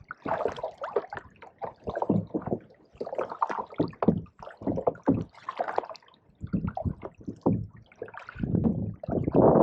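Water splashing, gurgling and dripping around a canoe on a pond, in short irregular splashes a few times a second, with a louder rush near the end.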